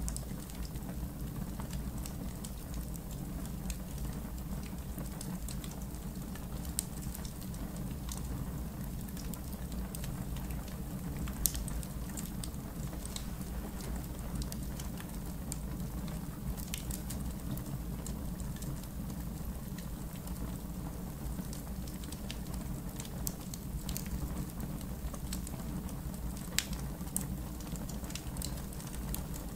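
Wood fire in an outdoor fire pit crackling steadily, with a low rumble of burning and scattered sharp pops and snaps, a few louder ones standing out.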